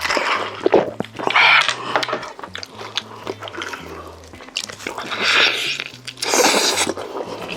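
Close-miked chewing and biting of food, with crunches and two longer, louder stretches of wet chewing.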